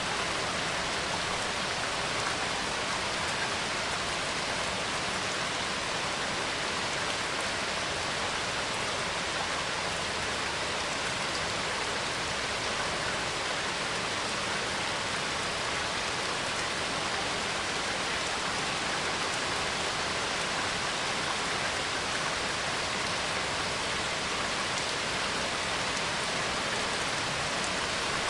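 Steady rain falling: an even hiss of many drops, with no break or thunder.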